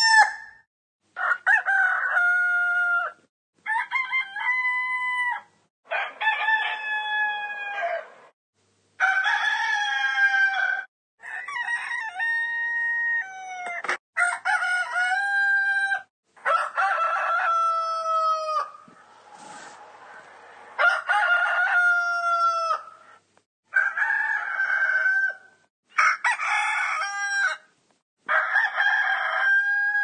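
Rooster crowing over and over: about a dozen separate cock-a-doodle-doo crows, each a second or two long, with short pauses between them.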